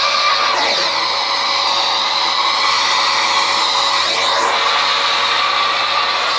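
Household vacuum cleaner running steadily, with its whine bending in pitch briefly twice: about half a second in and again about four seconds in.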